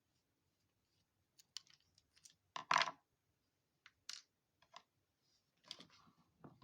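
Small plastic and metal parts of an RC crawler's front axle clicking and knocking as they are handled and taken apart: a dozen or so short, irregular clicks, the loudest group about two and a half seconds in.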